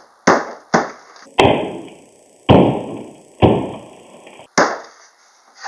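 Six sharp knocks on wood, unevenly spaced about half a second to a second apart, the later ones heavier with a longer ring: glued wooden support pieces being tapped into line.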